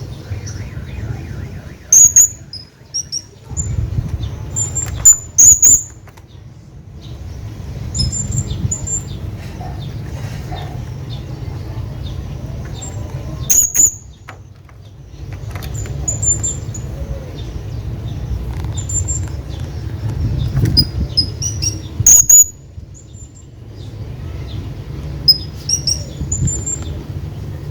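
Hanging parrot giving short, shrill, very high-pitched chirping calls in scattered clusters, several of them loud and sharp, over a steady low rumble.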